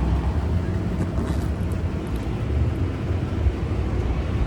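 Steady low rumble of downtown street traffic.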